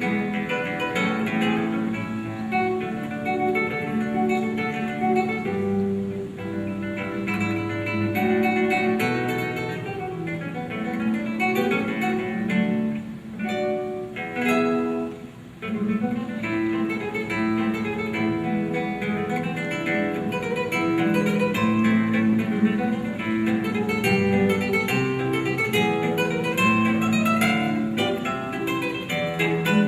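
Acoustic guitar playing an instrumental piece, plucked notes and chords, easing off briefly about halfway through before carrying on.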